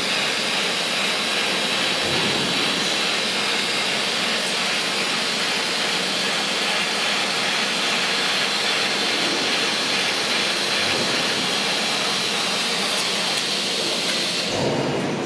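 Steady hiss from a tube sheet orbital welding machine at work; about a second before the end the hiss drops away and a few clicks follow.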